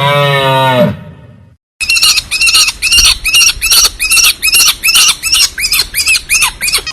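A cow's low moo ends about a second in; after a short silence, a bird squawks over and over in a steady run of short calls, about three a second.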